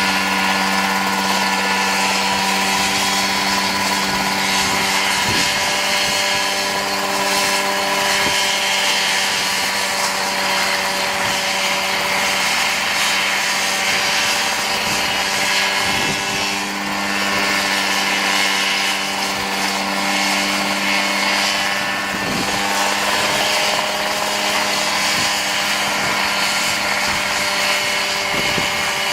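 Engine of a homemade Mosquito-style ultralight helicopter running steadily at a constant pitch.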